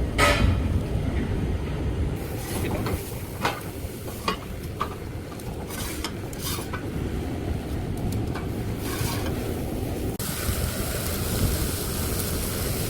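Strong wind rumbling on the microphone, with scattered sharp clicks and knocks; about ten seconds in a steady hiss joins.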